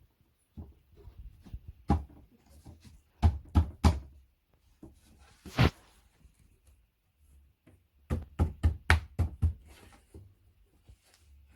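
Knocking and tapping on flat-pack furniture parts during assembly. Three loud knocks come in quick succession about three seconds in, a short, noisier sound comes midway, and a fast run of about six knocks follows near the end.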